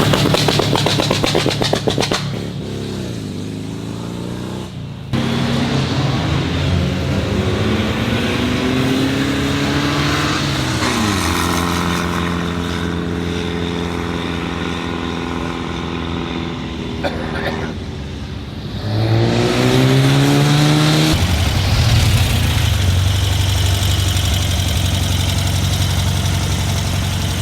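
Vehicle engines revving and passing by, their pitch rising and falling several times. In the last few seconds this settles into a steady low engine drone.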